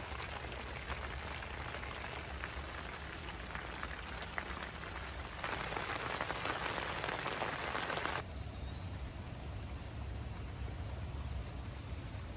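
Steady rainfall: a dense hiss of rain with scattered drop ticks. It grows louder and brighter about five and a half seconds in, then drops back about eight seconds in.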